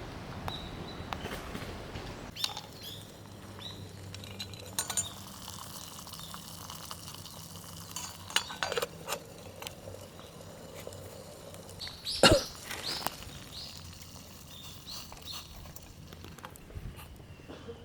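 Scattered small clicks and clinks of camp cookware and gear being handled, with one louder knock about twelve seconds in.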